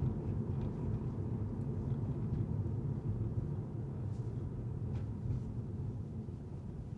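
A car being driven through city streets: a steady low rumble of engine and tyre noise.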